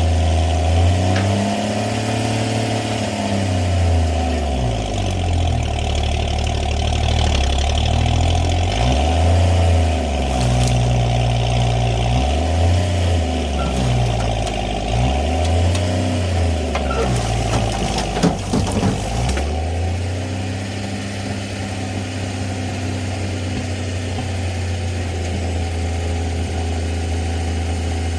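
Winch truck's engine revving up and down again and again as it works. There is a brief clatter of knocks, and then the engine settles into a steady idle for the last third.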